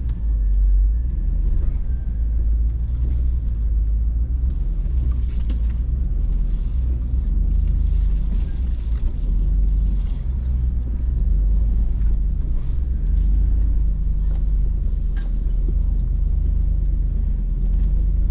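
Hummer H2's V8 engine rumbling steadily at low revs as it crawls over rock, heard from inside the cab, with occasional knocks and clicks.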